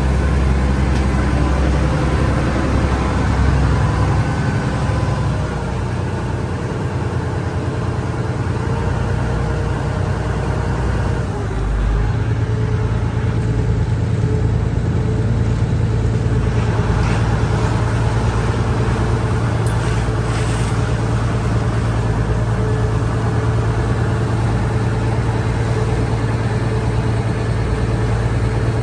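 Cross-river ferry's engine running steadily under way, heard from on board, with water and wind noise. The engine note shifts and grows stronger about twelve seconds in.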